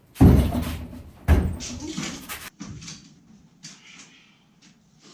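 Two heavy thumps about a second apart, each followed by a short rattle, then scattered lighter knocks and clicks.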